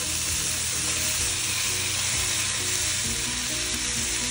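Onion, bell pepper and carrot strips sizzling steadily in hot olive oil in a frying pan as slices of raw beef are laid in among them.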